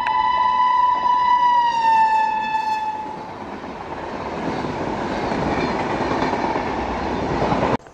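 Horn of an EMD WDP-4 diesel locomotive in one long steady blast whose pitch falls about two seconds in as the locomotive goes by, dying away about a second later. Then the loud rushing rumble of the passenger coaches rolling past on the rails, which cuts off abruptly near the end.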